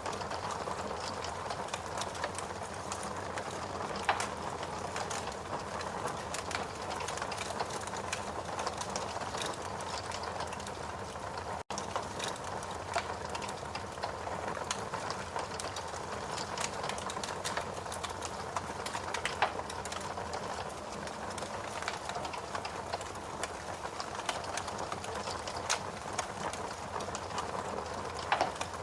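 Steady rain mixed with a wood fire crackling in a fireplace, with frequent small irregular pops and snaps over an even hiss. The sound drops out for an instant about twelve seconds in.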